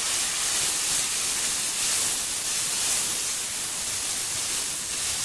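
Onion, garlic and spice masala sizzling in a hot metal kadai with a little water just added: a steady hiss.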